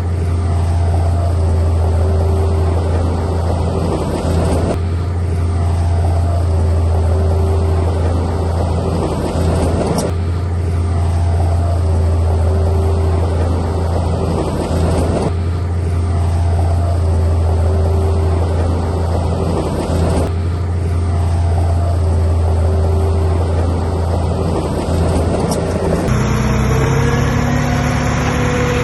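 Heavy diesel machinery engine running steadily with a deep drone, its sound going through the same cycle about every five seconds and changing near the end.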